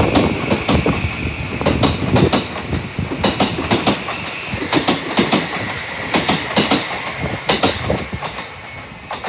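E231-series commuter train pulling out, its wheels clacking over the rail joints car after car. The rumble and clacks fade steadily as the train draws away.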